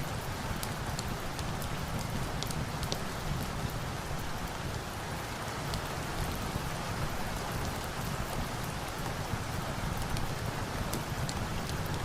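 Steady rain, with a log fire's scattered sharp crackles mixed in.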